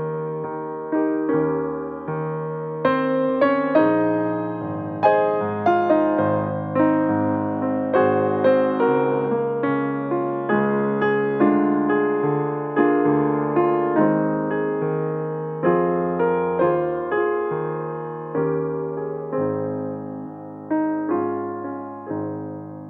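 Piano playing a slow, gentle piece in chords, each note struck and left to fade.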